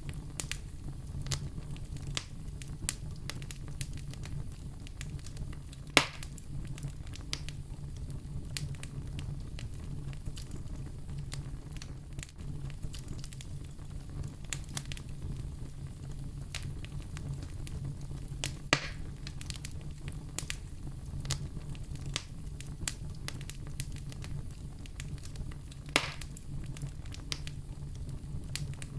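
Wood fire in a fireplace crackling: a steady low rumble of the flames under a constant scatter of small snaps, with three louder pops spread through.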